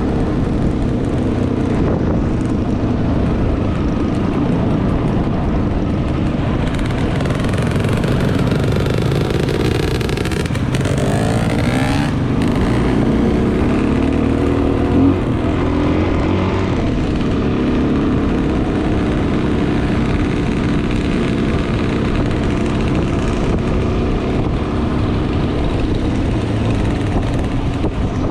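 Dual-sport motorcycle engine running under way, with a steady rush of road and wind noise. The engine note rises and falls a few times partway through.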